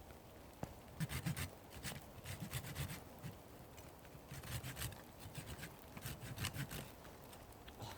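Hand saw cutting through a dead branch in several short runs of quick back-and-forth strokes, with brief pauses between the runs.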